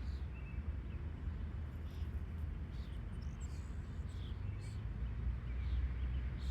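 Small birds chirping here and there, short high calls scattered through, over a steady low rumble.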